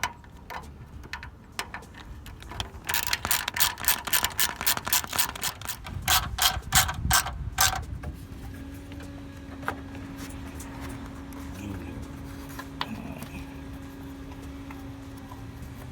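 Rapid ratcheting clicks for about five seconds as a fastener is tightened on the radiator's mounting, with a few single clicks before and a steady low hum afterwards.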